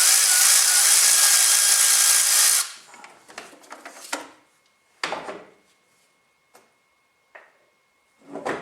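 Power tool running steadily on a HMMWV exhaust manifold bolt, cutting off between two and three seconds in. A few short metallic clicks and knocks follow as the tool and parts are handled.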